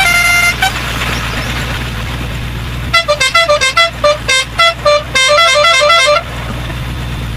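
Truck engine running with a low rumble while a musical truck horn plays a quick tune of short notes, starting about three seconds in and lasting about three seconds.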